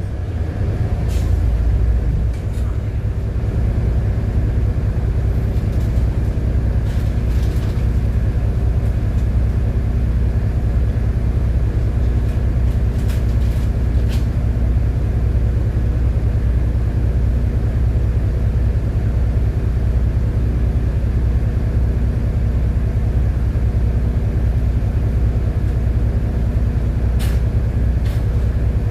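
City bus running along its route, heard from inside the cabin: a steady low engine and road drone, with a few brief clicks or rattles now and then.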